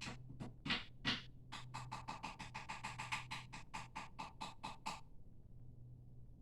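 Rapid, even tapping or clicking, about five a second, that stops about five seconds in, after a few scattered clicks at the start, over a steady low hum.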